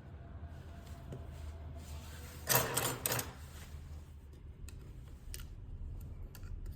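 Small hand tools clicking and clattering against a phone on a workbench, with a louder rattling burst about two and a half seconds in and a few sharp clicks after it, over a steady low hum.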